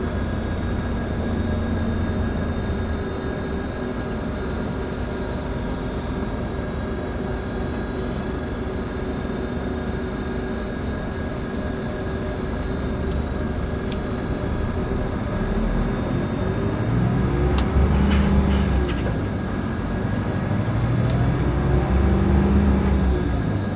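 Scania K410IB coach heard from inside the passenger cabin on the move: a steady engine and road drone with a few constant whines. In the last third the engine note rises and falls twice, growing louder each time.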